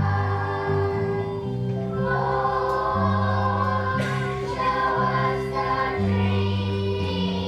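Children's choir singing with held notes over an instrumental accompaniment whose bass line steps between notes every second or so.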